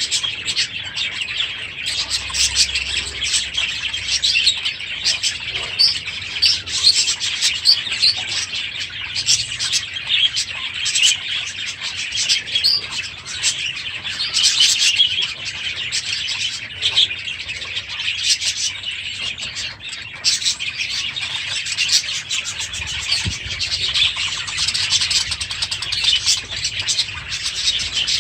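A flock of budgerigars in an aviary, chattering and chirping continuously with many overlapping calls.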